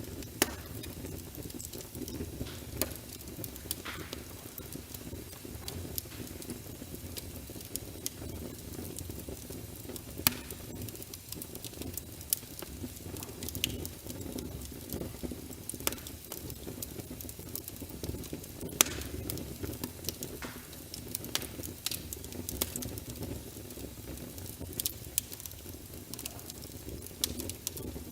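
Wood logs burning in a fireplace: a steady low rumble of the flames with frequent sharp crackles and pops, a few of them louder than the rest.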